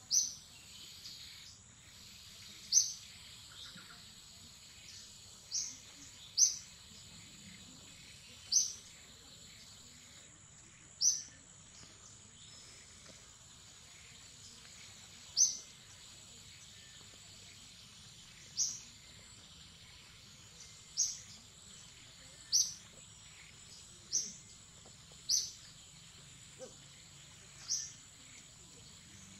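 A bird giving about a dozen short, sharp, high chirps at uneven intervals, over a steady high insect drone.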